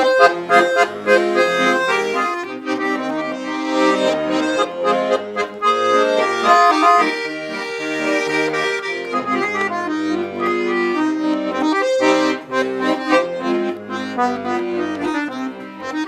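Russian garmoshka (button accordion) playing an instrumental break between sung verses: a melody over sustained chords, with bass notes underneath.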